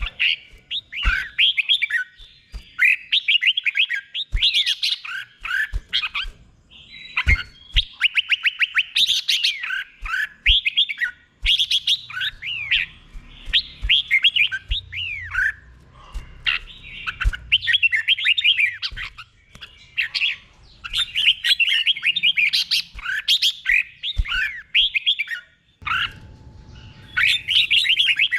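Red-whiskered bulbul singing its doubled song: phrase after phrase of quick, liquid whistled notes that glide up and down, with short pauses between phrases. Occasional sharp low knocks sound under the song.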